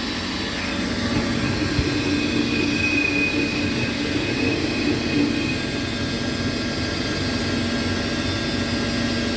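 Conect 121 CNC lathe running a boring cycle, its spindle turning and a boring bar cutting 6082-T6 aluminium: a steady machine hum with a thin high whine for a few seconds in the middle.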